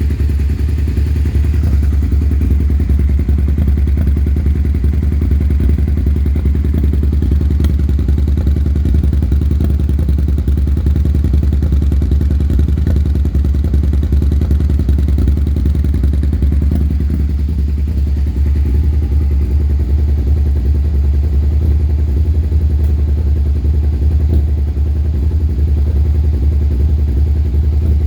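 2001 Suzuki SV650's 90-degree V-twin engine idling steadily with a rough, uneven beat, which the owner puts down to misfires.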